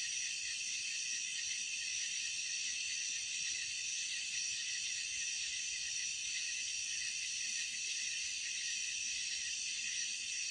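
Steady chorus of night insects, crickets, trilling high-pitched without a break.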